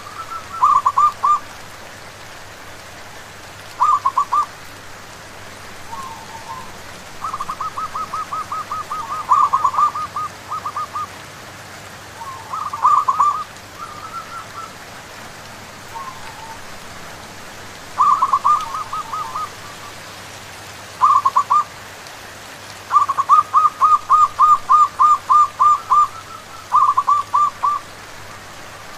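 Zebra doves (perkutut) cooing in repeated bursts of quick staccato notes, some short and some long strings of a dozen or more, over a steady hiss of rain.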